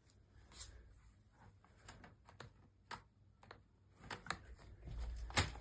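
Faint scattered clicks and light knocks, with a low rumble and a couple of louder knocks near the end. No chainsaw engine running or revving is heard.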